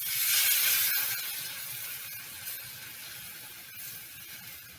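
Tamarind water hitting a hot clay pot of frying bitter gourd and spices: a sudden loud hiss and sizzle that dies down over about two seconds to a steady, lighter sizzle.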